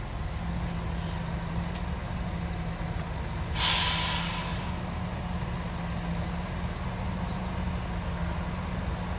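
Heavy diesel earthmoving machinery running steadily, with a sharp hiss of air brakes lasting about a second, a little over three seconds in.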